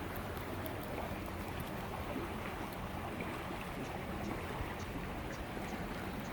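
Steady rushing noise with a low rumble, like outdoor wind on the microphone, with faint short high-pitched ticks repeating throughout.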